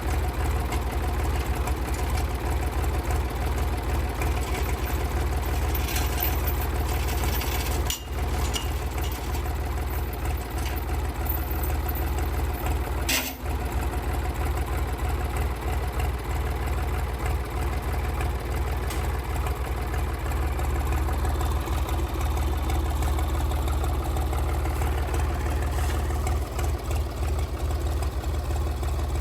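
Sawmill's gasoline engine running steadily at constant speed, with two brief clicks, one about a third of the way in and one about halfway through.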